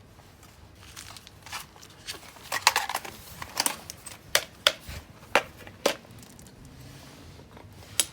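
Ferrocerium fire-steel rod scraped hard with a striker, about seven short, sharp rasping strokes, most of them between about two and a half and six seconds in and one more near the end.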